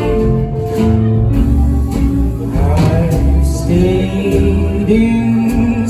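Live band playing a roots song between sung lines, with a male vocal coming back in near the end.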